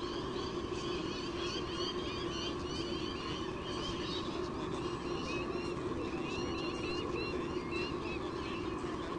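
Birds chirping in quick runs of short high notes over a steady low hum.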